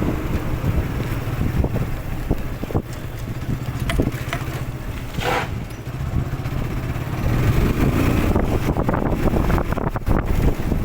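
Motorcycle running on the move, a steady low engine rumble with wind buffeting the microphone.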